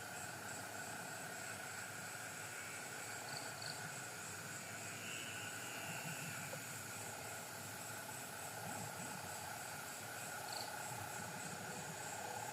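Steady night-time insect chorus of several insects calling at once, one giving a high, evenly pulsing trill.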